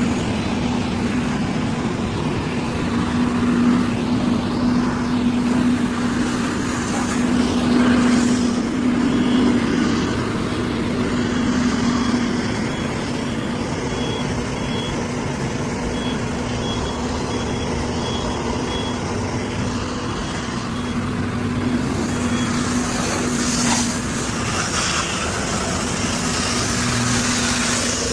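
A truck engine runs steadily. For several seconds in the middle, a high electronic beep repeats about every half second, like a reversing alarm.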